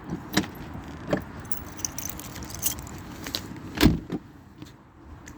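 Car keys jangling, with several sharp clicks and one louder knock a little under four seconds in.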